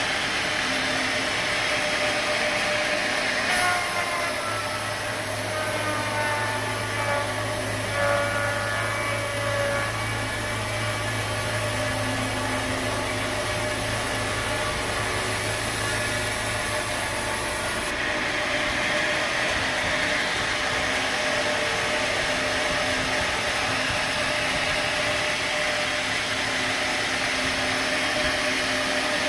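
Sawmill machinery running steadily, a saw cutting timber, with a low hum that comes in about four seconds in and drops out after about eighteen seconds.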